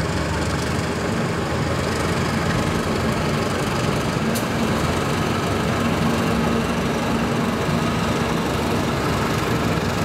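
Diesel locomotive engine running steadily as a passenger train rolls across a railway bridge, with a continuous low rumble and hum.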